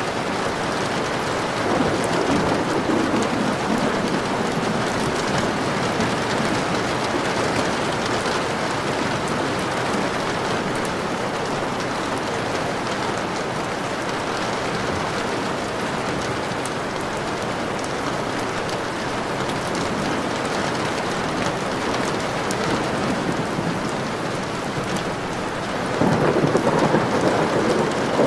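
Steady rain falling, with two low rumbles of thunder swelling up, one about two seconds in and one near the end.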